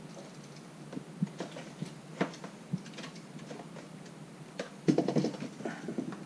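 Scattered light clicks and knocks of small parts being handled as a battery monitor display is pushed into its panel, with a denser flurry of clicks about five seconds in.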